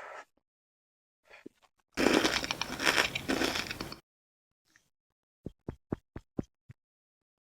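Close-miked food and utensil handling sounds: about two seconds of loud crackling and scraping, then a quick run of about six soft clicks.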